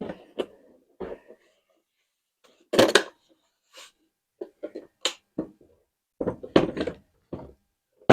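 A scattering of short knocks and clicks from the plastic body of a robot vacuum cleaner being handled and worked on by hand. The loudest thud comes about three seconds in, and a quicker run of clicks follows about a second and a half later.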